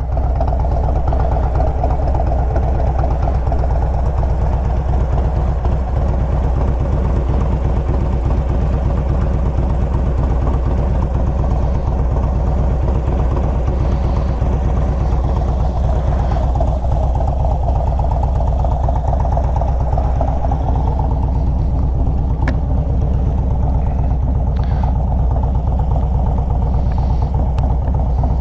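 Harley-Davidson Road Glide's V-twin engine running steadily at low revs with an even pulsing beat and no revving.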